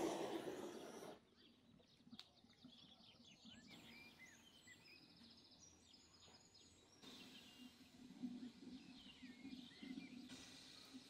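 Faint birdsong: scattered short chirps and rising calls over a quiet outdoor background. A hiss from the fire-lighting shot before it cuts off about a second in.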